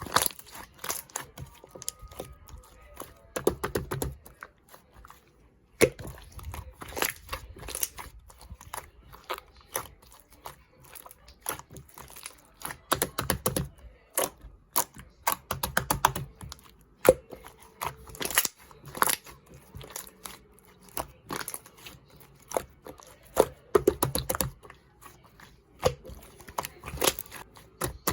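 Slime being pressed and squished by hand, giving an irregular run of sharp sticky clicks and small pops.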